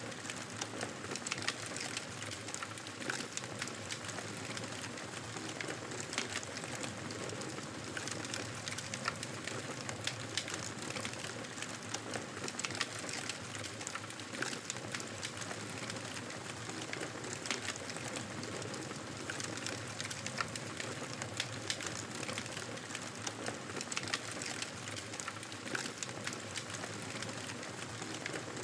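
Campfire burning: wood crackling, with many small sharp pops and snaps over a steady hiss of flame.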